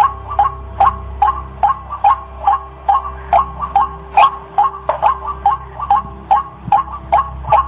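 White-breasted waterhen calling over and over: short, sharp notes repeated in a steady rhythm of about two or three a second, with a faint steady hum underneath.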